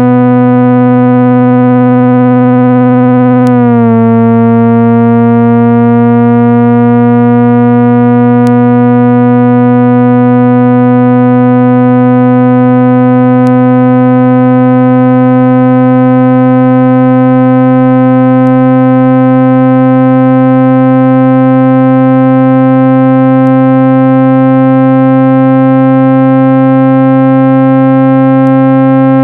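Loud synthesized speaker-cleaning tone, a steady buzzing note with many overtones, played to vibrate water and dust out of a phone speaker. About three and a half seconds in its pitch dips suddenly, then it glides slowly upward.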